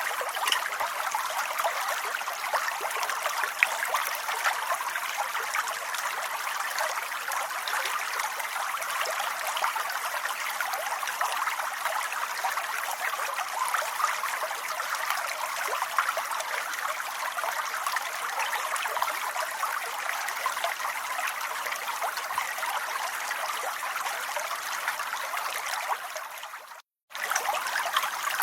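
Steady rain falling, an even hiss dotted with many small drop ticks. Near the end it cuts out for a fraction of a second and then resumes unchanged.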